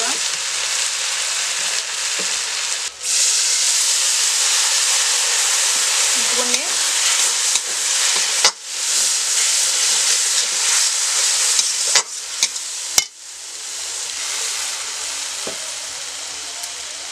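Onion, tomato and ground-spice masala sizzling in hot oil in a metal karahi, a flat metal spatula stirring and scraping it through the oil. A few sharp taps of the spatula against the pan come in the last third.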